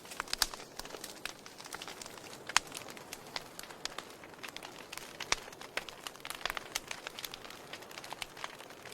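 Wood fire in a fireplace crackling, with irregular sharp pops and snaps over a soft steady hiss; one pop about two and a half seconds in stands out as the loudest.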